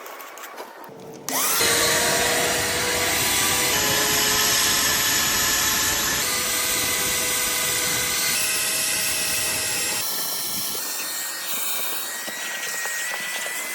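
Car vacuum cleaner switching on with a rising whine about a second and a half in, then running loudly and steadily as it sucks. Its motor pitch shifts in steps several times as the suction load changes.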